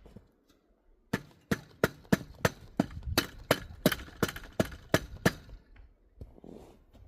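A quick, even series of about a dozen sharp knocks, roughly three a second, lasting some four seconds.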